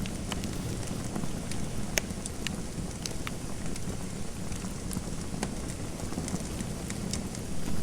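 Wood fire crackling in a fireplace: a steady low rush of flame with frequent irregular sharp pops and snaps.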